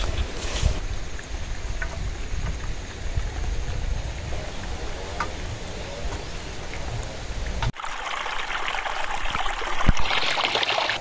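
Strong wind buffeting the microphone with a low rumble, then after a sudden cut a steady hiss of rain.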